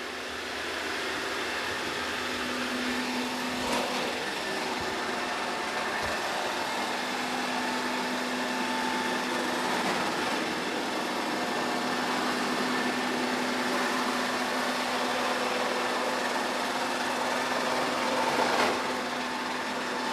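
Robot vacuum and mop running steadily, a constant motor hum with a low steady tone and faint brush noise, with a light knock about 4 s in and a brief swell near the end.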